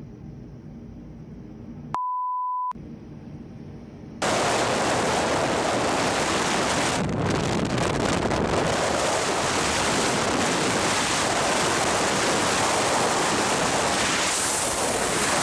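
A short censor beep, one steady high tone, about two seconds in. From about four seconds, a loud, steady rushing noise, like wind buffeting the microphone or surf, fills the rest.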